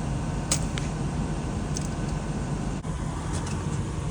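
Steady running hum of a motor vehicle, with a couple of light clicks about half a second in.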